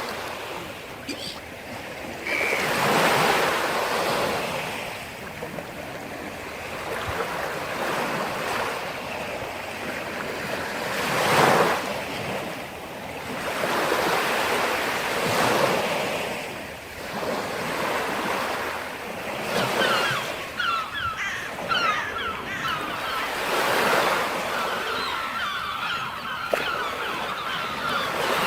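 Sea surf: waves breaking and washing in, the rush swelling and fading every few seconds.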